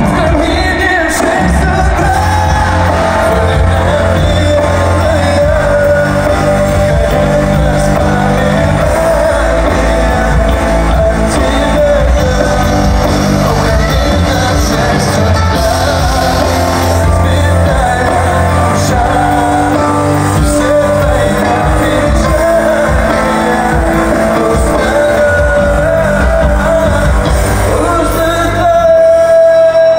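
Live pop song played loud over an arena sound system, with a steady beat and singing voices over it.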